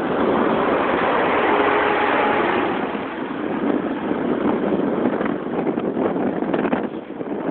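Motorcycle riding in the rain: a steady rush of wind and road noise over the microphone with the engine running underneath, loudest in the first three seconds and easing a little after.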